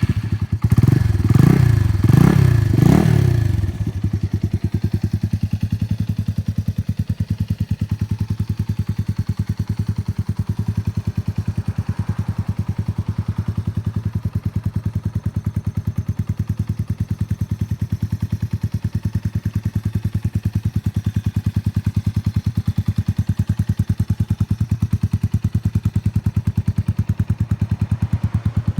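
Yamaha TW200's single-cylinder four-stroke engine, just started: it is revved a few times in quick blips during the first few seconds, then settles into a steady, even idle.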